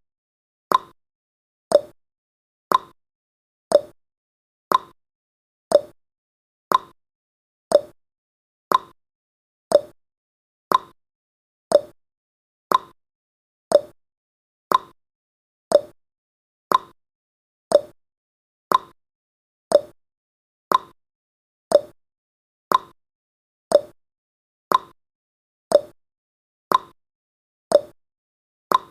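Clock tick-tock sound effect of a countdown timer: sharp clicks about once a second, alternating between a higher tick and a lower tock.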